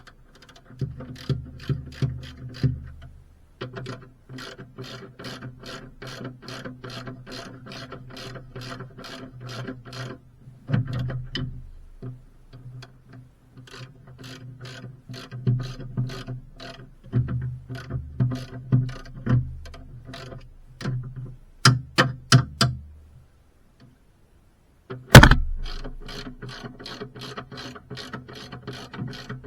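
Ratchet wrench clicking in long runs of about four clicks a second, with short pauses between runs, as bolts are turned. A single loud metallic knock comes near the end.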